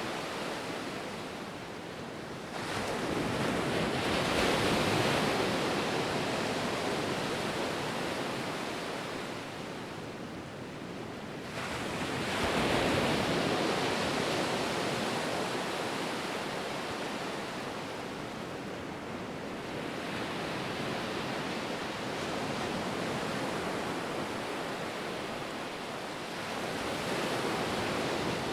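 Ocean surf: waves rolling in and breaking as a steady rush that swells and falls back. Two strong surges come about three and twelve seconds in, with weaker ones later.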